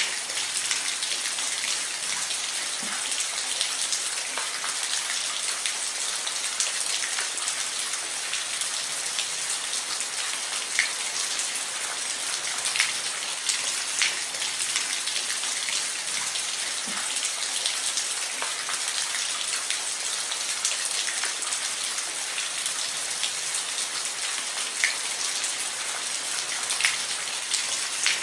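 Steady rain falling on a roof, with a constant hiss and the sharper ticks of single drops scattered through it.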